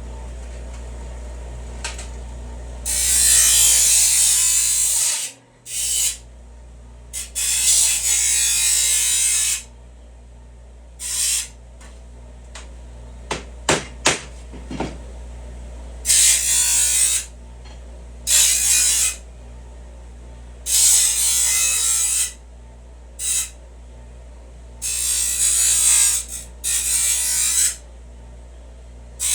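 Bench grinder motor running steadily, with about nine separate bursts of loud grinding as the edges of a thick steel patch plate are pressed to the wheel to take off the sharp edges. A few sharp knocks come about halfway through.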